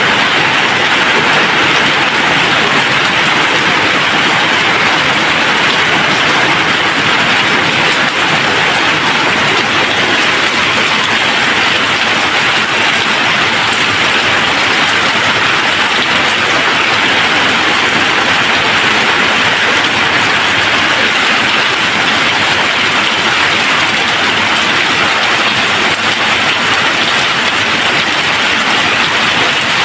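Steady rain falling, a dense, even hiss with no thunder.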